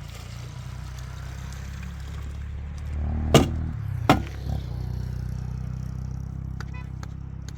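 Two sharp knocks about a second apart, with a weaker third just after, over a steady low rumble.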